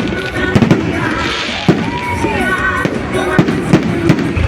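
Fireworks and firecrackers going off in irregular sharp bangs, with festival music playing underneath.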